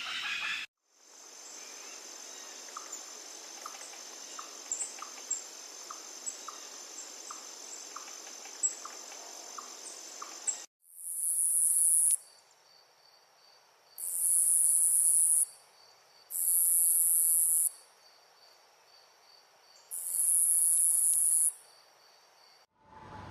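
Rainforest insect chorus: a steady high-pitched trill with faint regular ticks and small chirps. After a cut about 11 s in, a different pulsing insect trill plays, and four loud high buzzes of about a second and a half each start and stop in turn over it.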